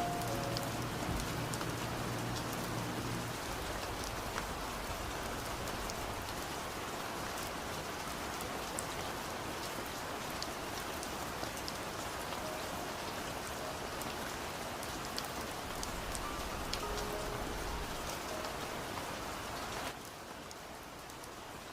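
Steady rain falling, an even hiss with small drops pattering and ticking. The tail of a low music note dies away in the first few seconds, and the rain drops in level near the end.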